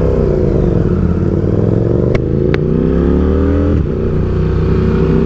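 KTM RC8C's V-twin engine pulling under throttle, its pitch climbing, dropping sharply at an upshift a little under four seconds in, then climbing again.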